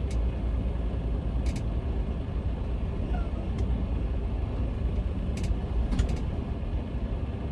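Semi truck running down the road, heard from inside the cab: a steady low rumble of engine and road noise, with a few scattered sharp clicks or rattles.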